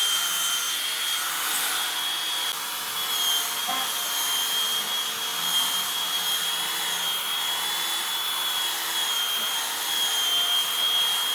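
An electric power tool running steadily, a high whine over a rushing noise, as it works wood.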